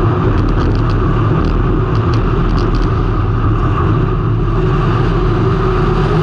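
Race car engine running hard and steady, heard through a camera mounted on the car, with a few faint ticks in the first half.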